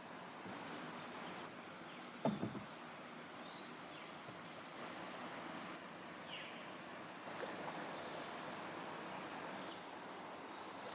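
Steady hiss of outdoor river and rainforest ambience around a paddled canoe, with scattered faint high bird calls. A brief louder sound comes about two seconds in.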